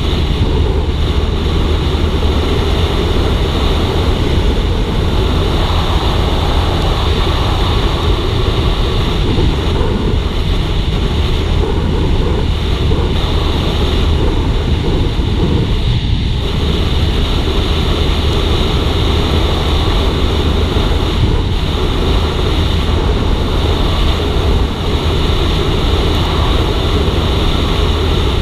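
Suzuki GSX-R150's single-cylinder engine running at a steady cruising speed, with wind rushing over the microphone. The level holds even throughout, with no revving or gear changes that stand out.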